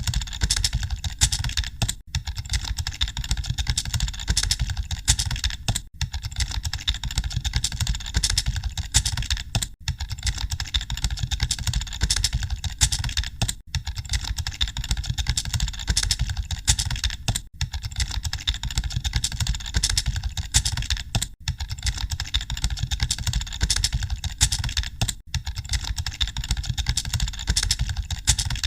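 Computer keyboards being typed on, a dense continuous clatter of key clicks like a room of people typing at once, over a steady low rumble. Short dips break it about every four seconds.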